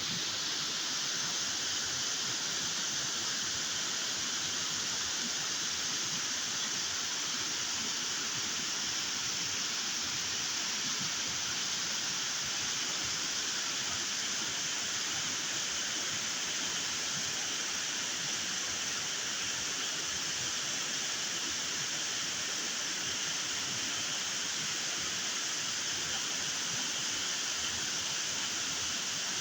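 Sumpul River water rushing, a steady, even hiss that does not change.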